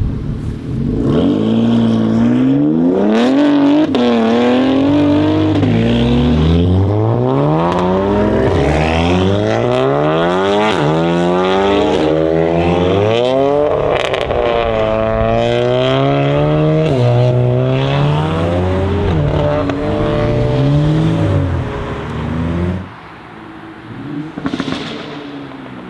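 BMW X3 M Competition's twin-turbo inline-six with a custom exhaust, accelerating hard: the engine note climbs and drops back with each of several upshifts. The loud run cuts away suddenly near the end, leaving a quieter engine sound.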